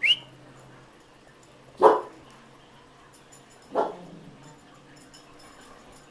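Pit bull giving a brief high, rising whine, then two short barks about two seconds apart.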